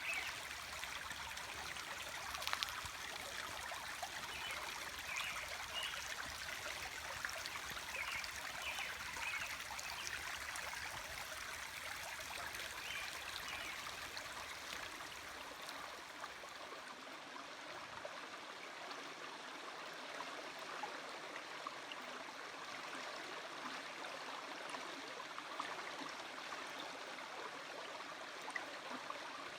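Small stream running steadily, a constant rush and trickle of water. A faint low rumble underneath stops about halfway through.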